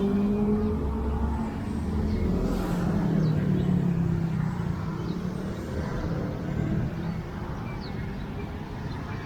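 Bus engine running with a steady hum and road noise; its note drops a little about three seconds in.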